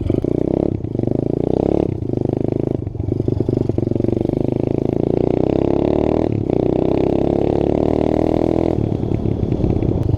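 Small off-road motorcycle engine running and revving, with brief dips in throttle about one, two and three seconds in and a short drop in the revs a little past the middle.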